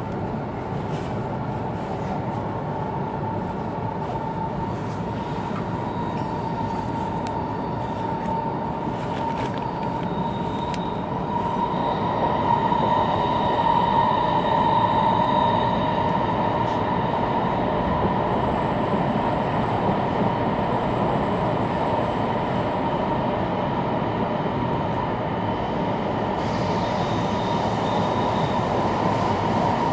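E2 series Shinkansen train running, heard from inside a passenger car: a steady rumble with high squealing tones over it, which grow louder about twelve seconds in.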